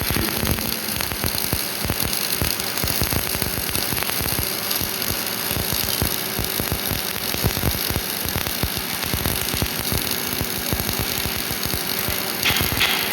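MIG welding arc crackling and sizzling steadily, a dense run of irregular sharp ticks.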